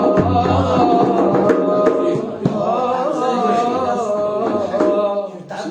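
A man singing a long, melismatic Arabic vocal line, his held notes wavering up and down in pitch, over backing music.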